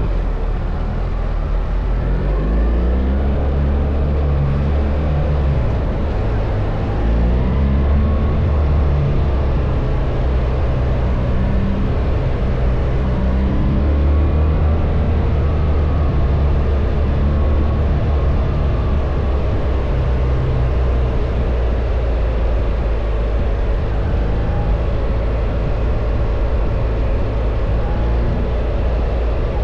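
BMW R1300 GS boxer-twin engine running under way, its pitch climbing and dropping back several times with throttle and gear changes, over a steady rush of wind and road noise.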